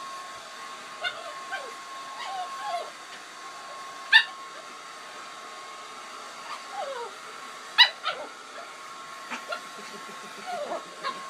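Hair dryer running steadily, with a dog whining and yelping over it in short cries that fall in pitch; the two loudest come about four and eight seconds in.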